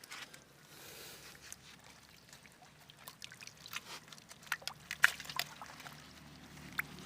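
Water splashing and sloshing: a string of irregular sharp splashes and drips, busiest about four to five seconds in.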